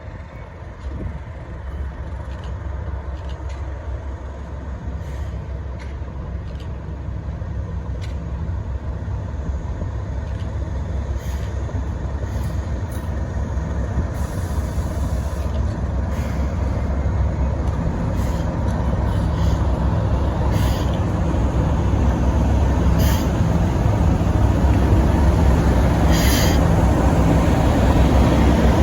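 Diesel locomotive engine running with a steady low drone, growing steadily louder as the train approaches. A few sharp clicks are heard in the second half.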